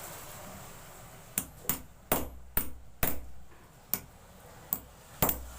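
Metal seal-driving tool being struck to knock a new oil seal into a motorcycle front fork tube: about eight sharp, unevenly spaced metallic taps, some with a brief high ring, starting about a second and a half in.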